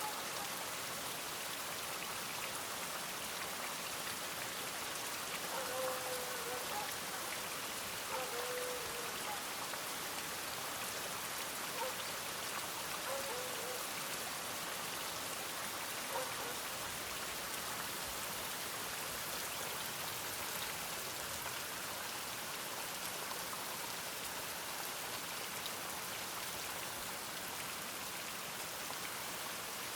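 Steady rain falling, an even hiss, with a few faint, brief pitched sounds in the first half.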